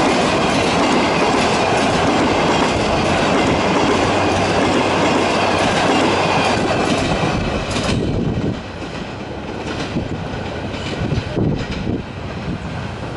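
Passenger train coaches rolling past close by, wheels clattering over the rail joints with a dense rumble. The noise drops suddenly about eight seconds in, then fainter clatter and knocks follow as the train draws away.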